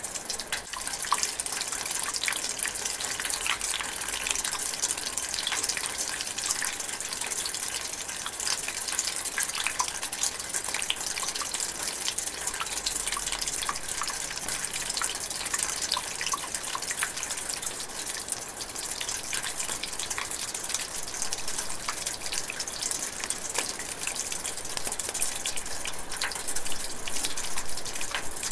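Light rain drizzling steadily, with many separate drops ticking through an even hiss.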